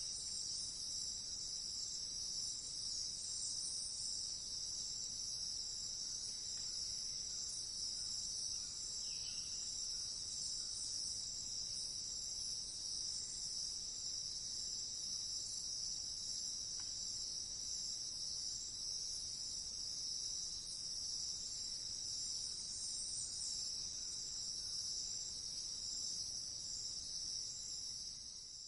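Steady chorus of crickets, a continuous high-pitched trill, beginning to fade out near the end.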